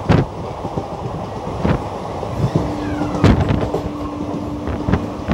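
Indian Railways express coach running, heard from on board: a steady rumble of the wheels on the track with a sharp clack about every second and a half as the wheels cross rail joints. A steady low hum comes in about halfway through and stops near the end.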